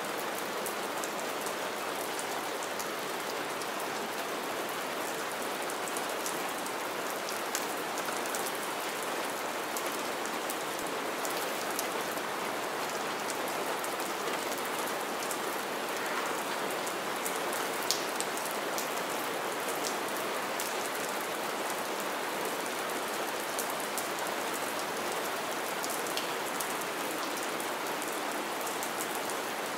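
Steady rain falling into a shallow puddle on needle-strewn ground, an even hiss with many separate drop splashes ticking through it.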